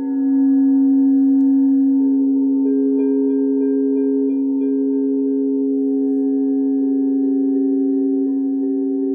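Singing bowls ringing in long, sustained tones. A strong low tone swells in at the start, and a second, higher bowl tone joins about two seconds in with a slight pulsing as they sound together.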